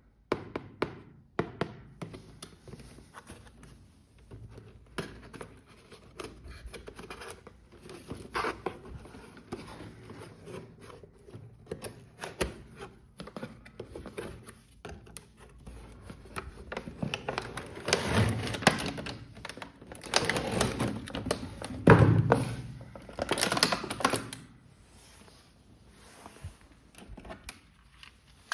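Hands unboxing a plastic toy: irregular clicks, taps and light knocks of plastic and packaging being handled, busiest and loudest for several seconds past the middle.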